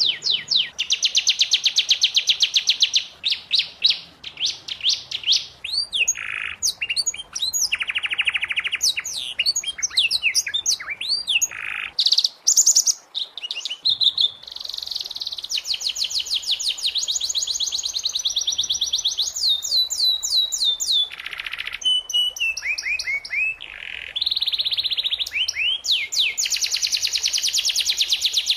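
Domestic canary singing a long song of rapid trills, each phrase a fast run of identical notes that switches to a new trill every second or two, with some swooping notes in between.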